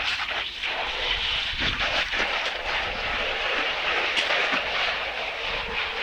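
Pressure washer gun spraying a jet of water, a steady hissing spray with a low rumble underneath.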